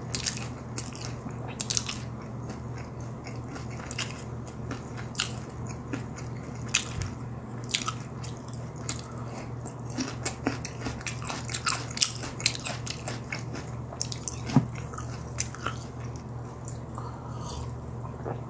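Chewing a mouthful of crisp fried food: many short, sharp crunches with wet mouth sounds, coming thickest in the second half, over a steady low hum.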